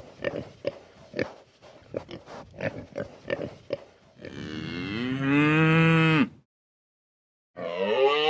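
A run of short, rough animal grunts or snuffles, several a second, then a cow mooing once for about two seconds, its pitch rising and then dropping. After an abrupt silence, another long, pitched call begins near the end.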